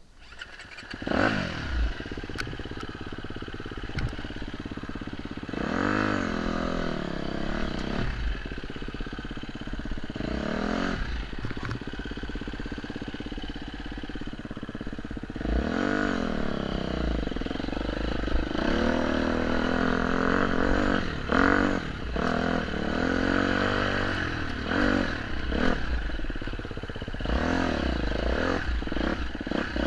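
Off-road motorcycle engine riding a trail, the revs rising and falling again and again, with scattered clattering knocks.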